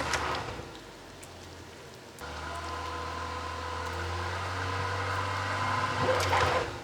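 Jeep engine running under load while driving through deep snow. It eases off about half a second in, then from about two seconds in pulls steadily and grows louder until it drops away near the end.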